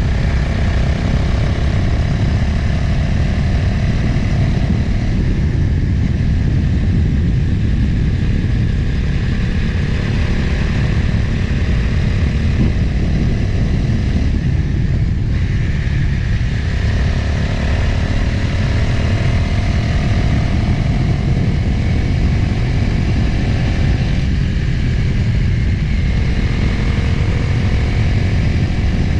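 Motorcycle engine running at road speed under a heavy rush of wind on the microphone. The engine note shifts pitch a few times as the bike changes speed.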